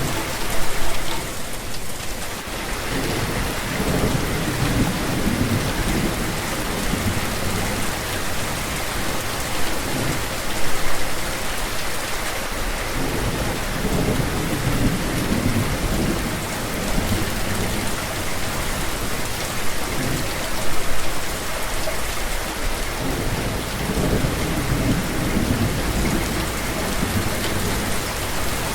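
Steady rain falling, with several long, low rumbles of thunder rolling through it.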